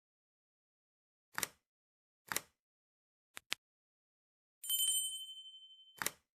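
Bell-like electronic ding, of the kind laid over an ending, ringing with bright high partials and fading over about a second. Before it come a few sharp isolated clicks, and another click falls near the end, all against dead silence.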